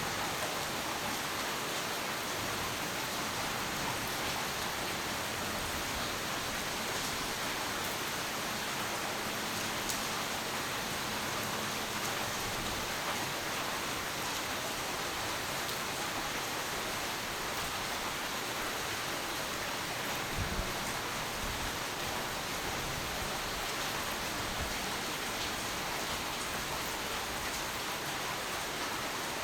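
Steady heavy rain falling, an even hiss with faint scattered drop crackles. A brief low thump comes about two-thirds of the way through.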